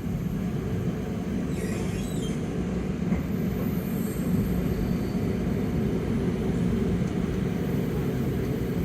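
Flåm Railway train running on the steep line: the steady low rumble of the carriage rolling over the track, with a faint high squeal briefly about two seconds in.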